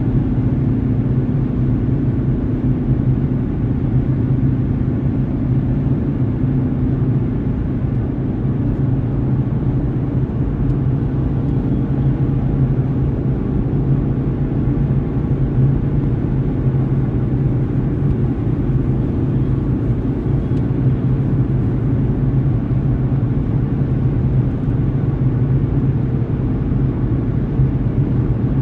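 Steady rumble of a car driving: road and engine noise heard from inside the cabin, with a low, even hum and no sudden events.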